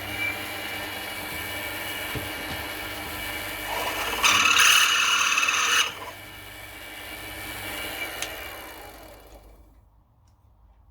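Mini milling machine running with a steady motor whine. About four seconds in, a loud harsh burst of cutting into aluminium lasts about a second and a half. Near the end the machine winds down and fades out.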